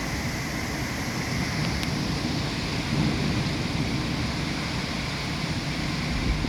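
Heavy rain falling steadily, with wind gusting across the microphone in low, uneven buffets.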